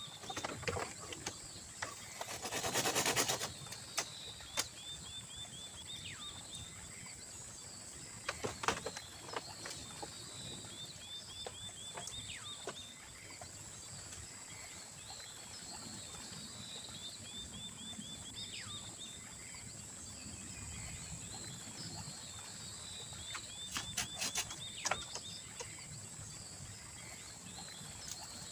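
Forest ambience: a steady high-pitched buzz with repeated trains of rapid chirping calls every few seconds. A brief burst of rustling noise comes about three seconds in, and scattered clicks and knocks follow later.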